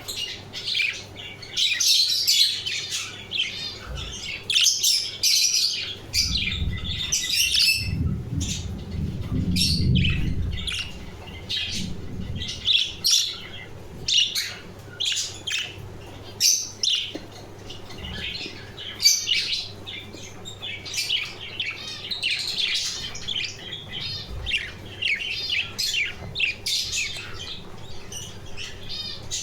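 A flock of budgerigars chattering in rapid chirps and warbles, with a low rumble for several seconds in the middle.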